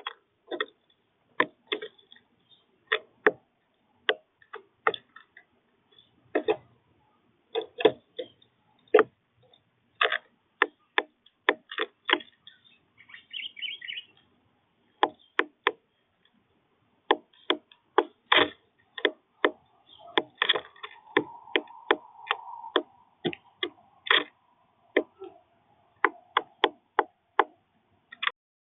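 Birds pecking at a feeder: irregular sharp taps and knocks, sometimes two or three in quick succession, with a brief twittering about halfway through.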